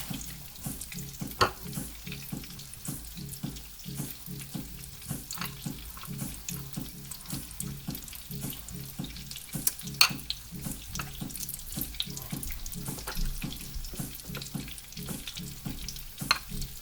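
Panko-breaded chicken breasts frying in hot oil in a skillet: a steady sizzle with small crackles, and two sharper pops about a second and a half in and about ten seconds in.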